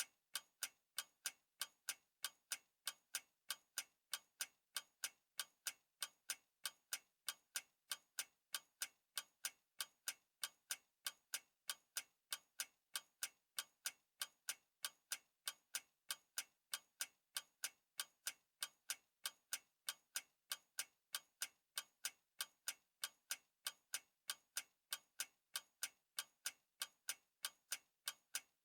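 Clock ticking: a steady run of evenly spaced, sharp ticks.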